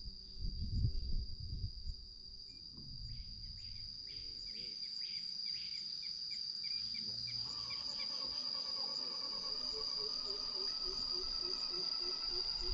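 Steady high-pitched insect chorus, with further repeated chirping calls joining about three seconds in and a louder layer of rhythmic calls from about seven seconds. A few dull low knocks in the first two seconds.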